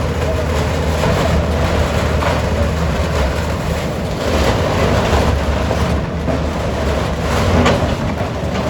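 Steady low engine rumble with a noisy wash over it.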